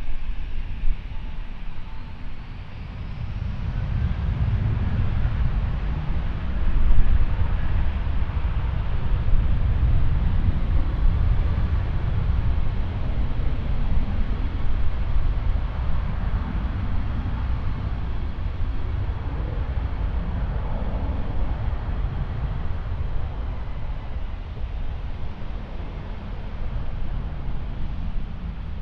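Jet airliner's engines rumbling as it passes. The deep rumble builds over the first few seconds, then slowly fades.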